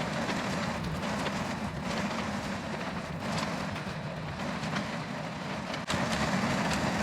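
Excavator diesel engine running steadily during tree-pushing work, with scattered sharp clicks and snaps over it; the sound gets louder about six seconds in.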